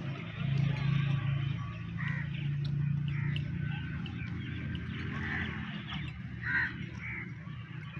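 Outdoor countryside ambience: birds calling in short, separate calls a few times over a steady low hum that eases after about three and a half seconds.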